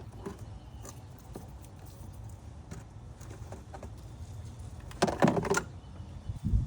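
Handling noise from working on the car: a few faint clicks, then a short clatter of clicks and rattles about five seconds in, and a dull thump near the end, over a steady low hum.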